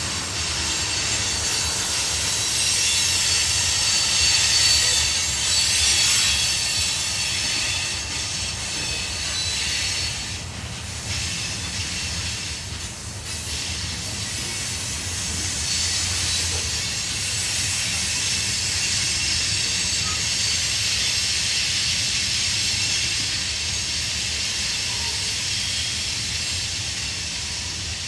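Tank cars and covered hoppers of a freight train rolling past: a low rumble of wheels on rail under a steady high hiss, easing off briefly about ten to fourteen seconds in.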